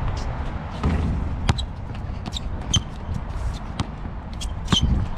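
Basketball bouncing on a hard court during one-on-one play, a handful of sharp bounces at irregular intervals, with short high squeaks between them.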